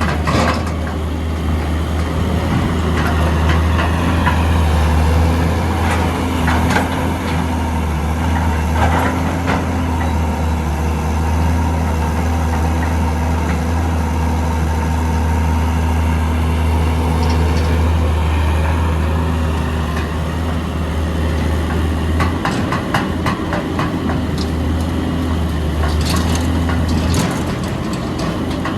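Hitachi EX200 excavator's diesel engine running steadily under load, with scattered knocks and clatter. The engine's low hum dips briefly about two-thirds of the way through and again near the end.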